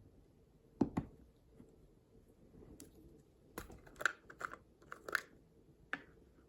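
Slime being pressed and poked by hand, giving small sticky clicks and crackly pops: two sharp clicks about a second in, then a quick run of crackles and one more pop near the end.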